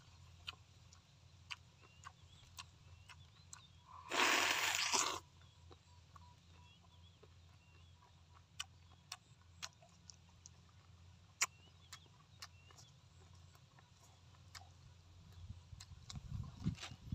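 Quiet eating sounds: scattered small wet mouth clicks of chewing braised pork, with louder biting and chewing near the end. A one-second hissing burst about four seconds in, and faint bird chirps in the first half.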